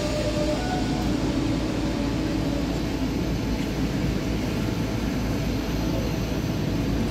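S-Bahn RheinNeckar electric multiple unit moving out along the platform: a steady rumble of wheels and running gear.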